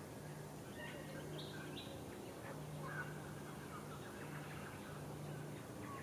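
Small birds calling in the background: scattered short chirps and brief whistled notes. Under them runs a low hum that comes and goes.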